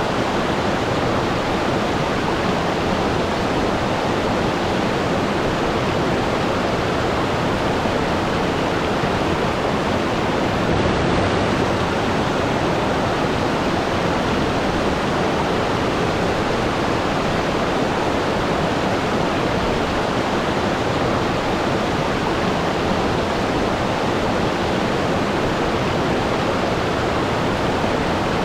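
Waterfall: water falling and rushing in a dense, steady roar that never changes.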